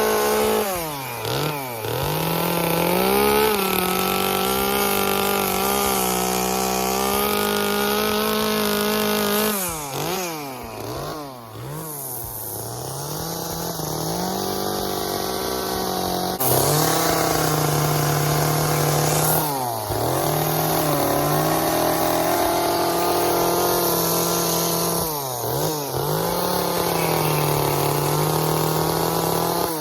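Gasoline chainsaw running at high revs while carving wood, dropping off and revving back up several times, with a quieter, lower stretch around ten to sixteen seconds in.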